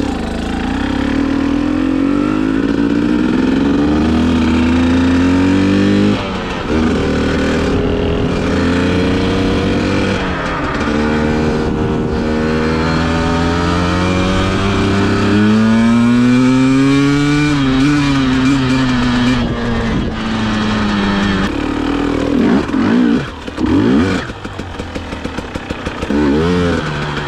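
KTM TPI two-stroke enduro bike engine, still cold, accelerating under load. Its pitch climbs and then drops at each upshift, about three times in the first fifteen seconds, then holds high before the throttle is eased off, with short blips near the end.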